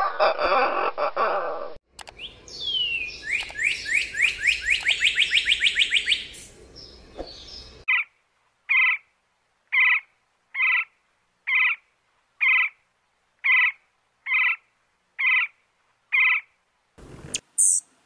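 Several birds calling in turn: first a loud, harsh call lasting under two seconds, then a fast run of downward-sweeping notes, then a slow series of about ten short, evenly spaced notes, roughly one a second.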